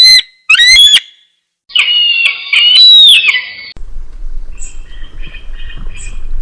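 Eagle calls: two short, loud, piercing screams, then a longer call that wavers in pitch and falls away at its end. About four seconds in, the sound cuts to a quieter recording with outdoor background noise and a run of short, high chirping calls.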